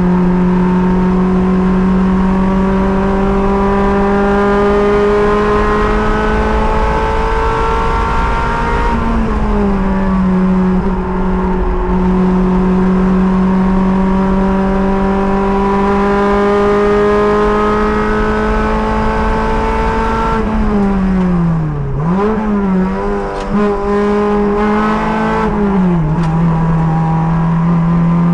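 Race car engine pulling at high revs, its pitch climbing slowly along the straights, with a brief change in revs about nine seconds in. Around twenty seconds in the revs fall away under braking, with quick throttle blips on the downshifts, then climb again as it accelerates.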